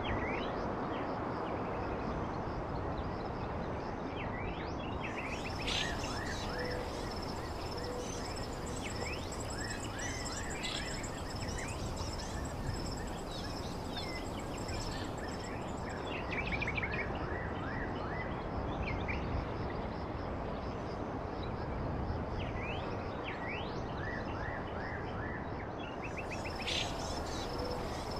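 Wild birds chirping in scattered clusters of short, quick sweeping notes over a steady background hiss, with a thin high steady tone running through much of it.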